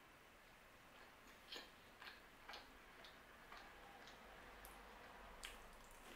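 Faint chewing of pinsa crust: soft mouth clicks and crunches about twice a second, over near silence.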